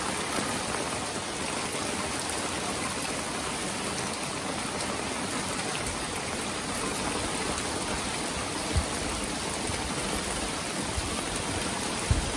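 Torrential rain pouring down steadily on a roof and the trees around it, an even hiss. A low rumble comes in about halfway through, and a single brief thump sounds about nine seconds in.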